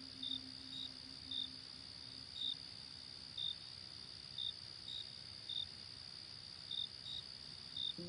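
Crickets chirping: a steady high trill under short chirps that come unevenly, roughly every half second. A low held music note dies away in the first two seconds or so.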